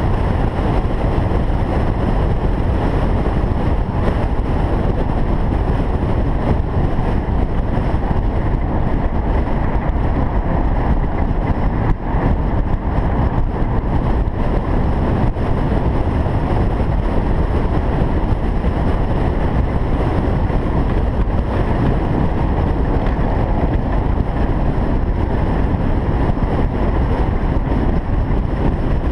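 Single-turbo Toyota Supra running at a steady pace: an even, unchanging drone of engine and road noise, with no revving or gear changes.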